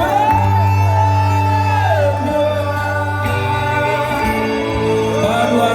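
Live pop-rock band playing: a held, bending melody line over a steady bass note.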